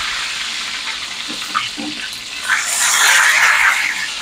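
Battered chiles rellenos sizzling in hot oil in a skillet, a steady hiss that swells about halfway through as the chiles are turned.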